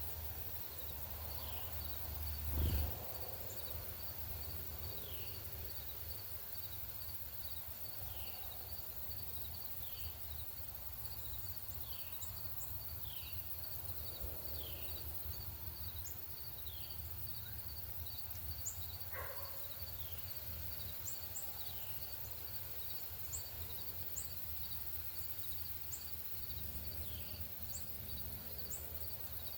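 A northern cardinal singing a series of slurred whistles that fall in pitch, about one a second, with a pause in the middle and a return near the end. An insect trills steadily and fast the whole time, short high bird chips come in during the second half, and a low thump comes about three seconds in.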